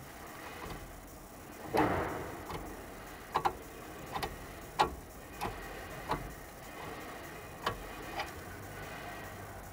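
Metal clicks and knocks at uneven intervals as a wrench works a seized front brake caliper guide pin that has just started to move. The loudest knock comes about two seconds in.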